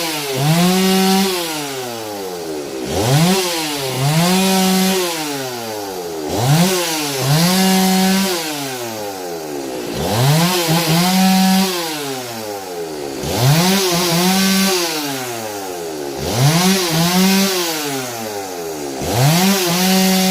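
A two-stroke chainsaw makes a series of quick cuts through wooden rafter ends, about one every three seconds. Each time the engine revs up, holds at full throttle through the cut, then falls back in pitch before the next cut.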